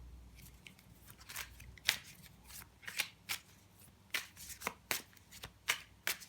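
A deck of tarot cards being shuffled by hand: a string of short, sharp card snaps and flicks at an uneven pace, some louder than others.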